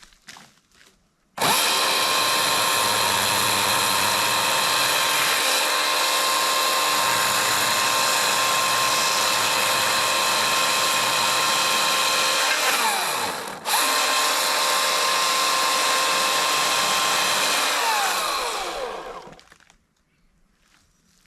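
EGO CS2005 20-inch battery-powered chainsaw running at its second speed setting, a steady high electric whine with no engine note. The whine starts suddenly, cuts out for a moment about two-thirds of the way through and starts again, then winds down in pitch and stops a couple of seconds before the end.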